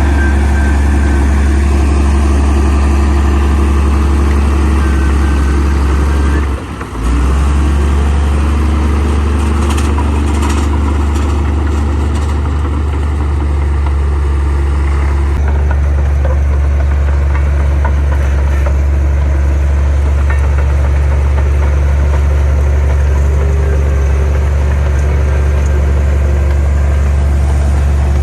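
Heavy diesel engine of earthmoving equipment running steadily with a deep, constant drone, with one brief drop in level about seven seconds in.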